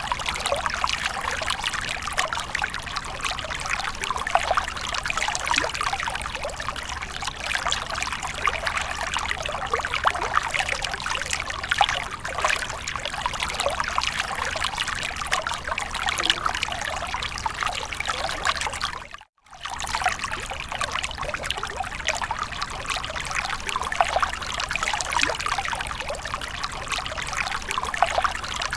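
Continuous splashing and trickling of running water, steady throughout. It cuts out for a split second about two-thirds of the way through, then resumes.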